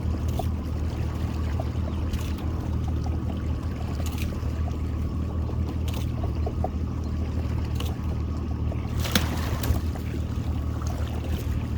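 Boat motor idling at low speed with a steady low hum, while water splashes and drips and scattered small clicks sound over it; a louder splash or knock comes about nine seconds in.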